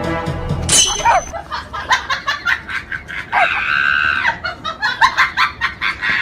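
People laughing in quick bursts, with one long high-pitched shriek about three and a half seconds in.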